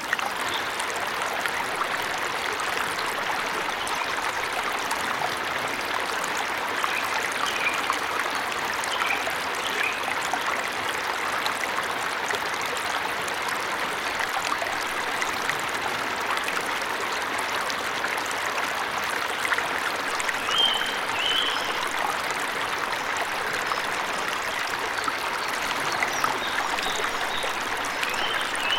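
Steady rush of water from a forest waterfall, with a few short bird chirps scattered over it, the clearest pair about two-thirds of the way in.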